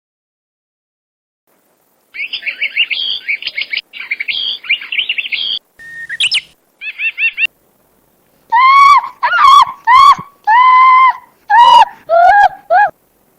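Sound-effect clips: a small bird chirps and twitters rapidly for a few seconds, with a few more short chirps after it. About halfway through comes a run of seven loud, pitched calls, each rising and falling in pitch, from another animal.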